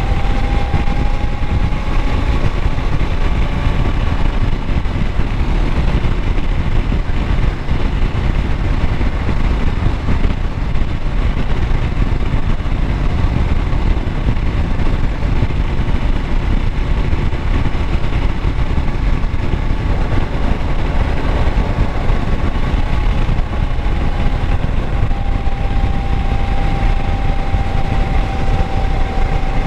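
Kawasaki Versys 650's parallel-twin engine running steadily: a continuous low rumble with a faint, steady whine above it.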